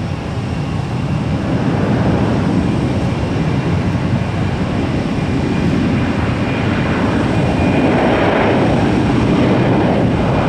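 Boeing 737 jet engines at takeoff power. The noise builds over the first two seconds, then holds loud and steady, with a faint high whine joining in over the second half.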